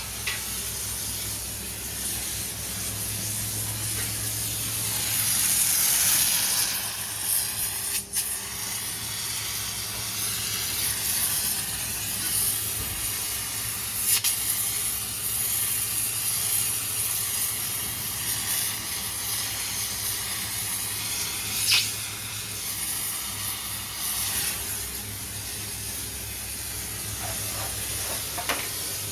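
Gas flame hissing steadily with a low, even roar underneath, broken by a few short knocks.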